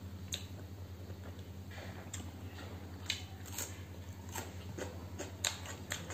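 Close-up eating sounds: wet chewing of rice and curry with irregular sharp mouth clicks, and crunchy bites of a raw onion slice in the second half, over a steady low hum.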